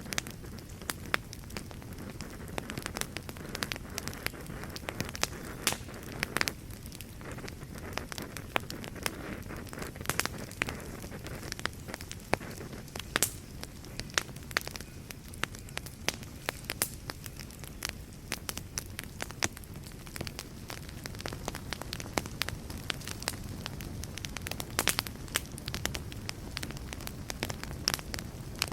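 Wood fire burning in a fireplace: a steady low hiss of flames with frequent irregular crackles and sharp pops.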